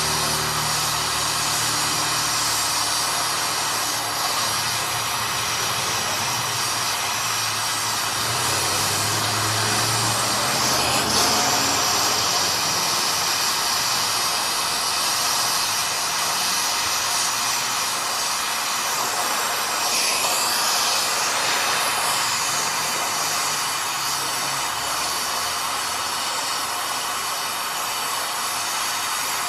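Brazing torch flame hissing steadily while copper refrigeration lines and the filter dryer are brazed in.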